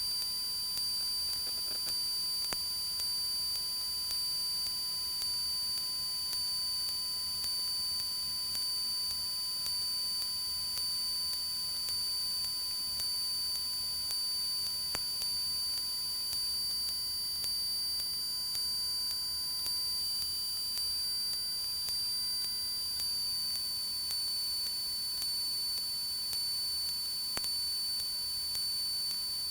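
Steady electrical whine and hiss on a light aircraft's headset intercom feed, made of a few fixed high tones over faint noise, with no voices keying the line. The highest tone drops slightly in pitch about three-quarters of the way through.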